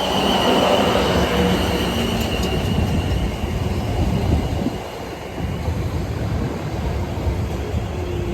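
Class 444 Desiro electric multiple unit pulling into the platform, rumbling as it slows, with a steady high squeal that fades out about five seconds in as the train comes to a stand.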